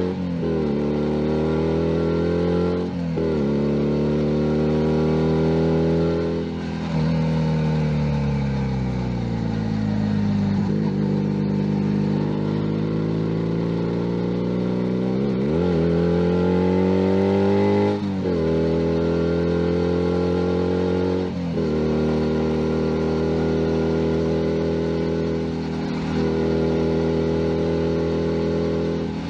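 2019 Junak M11 Cafe's 125cc single-cylinder engine under way, pitch rising through each gear and dropping sharply at each upshift, about six shifts in all. In the middle it winds down as the bike slows, then pulls away again.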